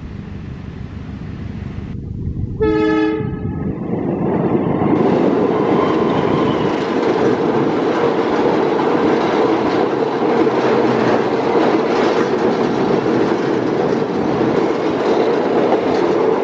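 Diesel locomotive horn of a passenger train sounding one short blast. A second later the train's rumble and wheel clatter build up and run on loudly as it passes over the railway bridge.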